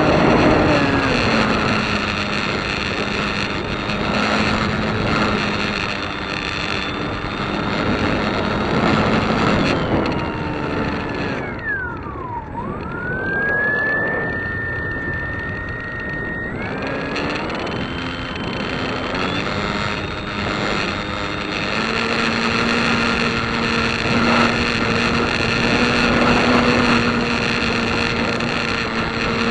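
A light aircraft's engine and propeller running with a steady drone. About twelve seconds in, its pitch dips sharply, then climbs and holds higher for a few seconds before settling back.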